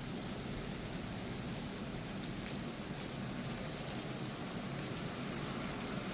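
Steady, even rushing noise of a storm, wind and rain.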